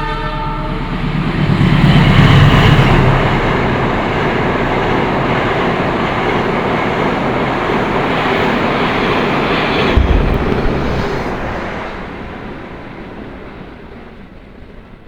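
A train passing close by. The locomotive's engine rumble peaks about two seconds in, then the carriages keep up a steady rushing rattle. There is a single sharp clank about ten seconds in, and the sound fades away as the train recedes.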